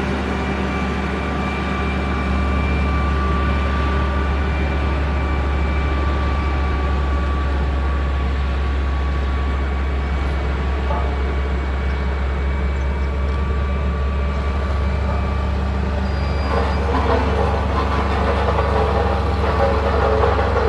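Motor grader's diesel engine running steadily under load, a constant low rumble. About three-quarters of the way in, a rattling clatter of machinery joins it and grows louder.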